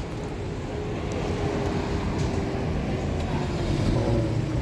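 A motor vehicle running on the road: a steady low engine rumble and road noise, with a faint engine whine that dips slightly in pitch near the end.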